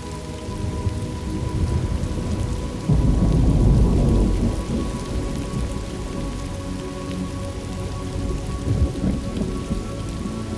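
Thunderstorm: steady rain, with a deep roll of thunder that breaks in suddenly about three seconds in and rumbles away over a couple of seconds.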